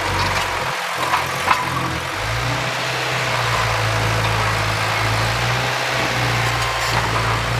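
Diesel engine of heavy earthmoving equipment running steadily, its low hum growing stronger about two seconds in, with a couple of short knocks early on.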